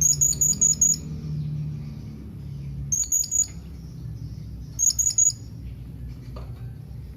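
Blue-crowned hanging parrot (serindit) giving its contact call: three short bursts of rapid, shrill, very high-pitched notes, each under a second long.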